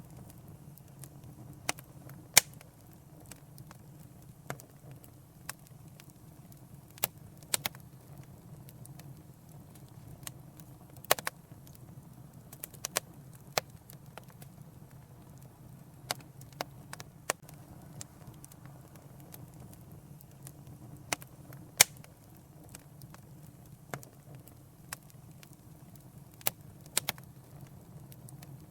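Wood fire in a fireplace crackling: irregular sharp pops and snaps, two of them much louder, over a steady low hum.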